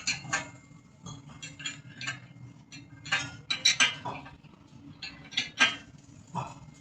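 Irregular metallic clinks and knocks of hand tools and nut-and-bolt fittings being handled, over a steady low machinery hum.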